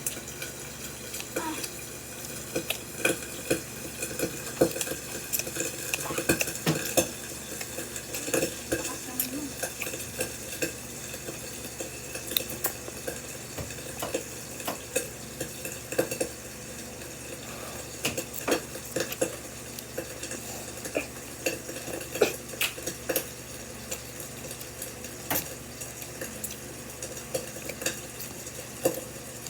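Eating black bean noodles from a bowl: utensils clinking and scraping in the dish, with frequent short sharp clicks at irregular intervals over a steady background hiss.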